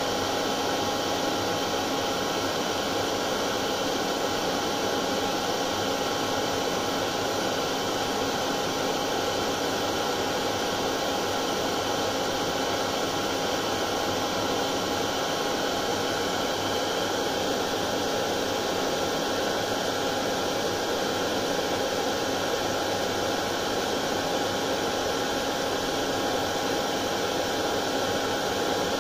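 Hair dryer running steadily: an unbroken rush of air with a steady motor tone, no change in speed or pitch.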